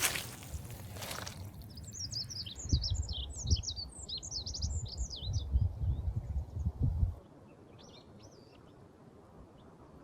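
A small songbird sings a rapid twittering phrase of quick high chirps, joined by a low rumble that cuts off abruptly about seven seconds in. A few faint chirps follow near the end.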